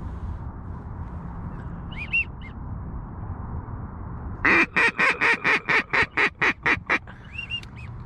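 Rapid string of about eleven loud duck quacks, about four a second over two and a half seconds. Before and after it come a few short, high whistled chirps.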